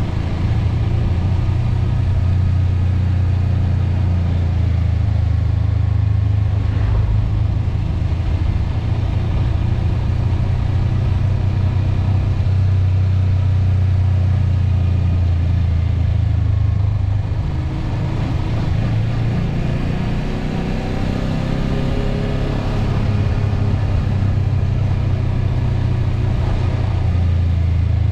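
A motor vehicle's engine running with a steady low drone, its pitch shifting for a few seconds around the middle.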